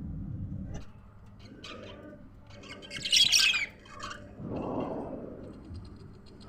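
Budgerigars chirping and chattering, with one loud burst of high chatter about three seconds in.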